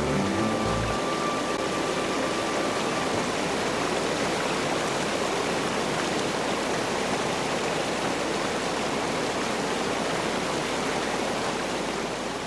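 Steady rushing water, a dense even roar of falling or flowing water. The last notes of music die away in the first few seconds, and the water sound fades down near the end.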